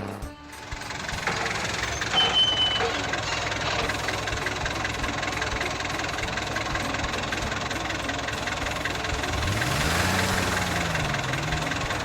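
A vehicle engine running steadily, with a short high beep about two seconds in and a low rise and fall in pitch near the end.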